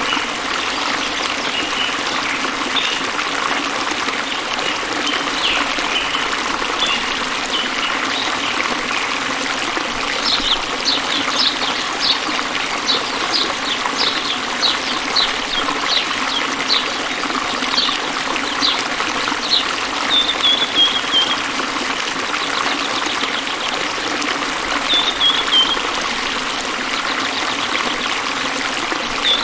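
Stream water trickling steadily, with small birds chirping over it: a long run of quick, high chirps in the middle, then a couple of short falling calls.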